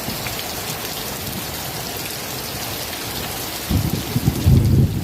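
Steady rain hissing, with a loud, uneven low rumble coming in near the end.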